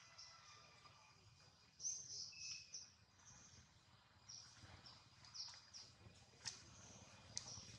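Faint, short high-pitched bird chirps at irregular intervals, in a few small clusters, with two sharp clicks near the end.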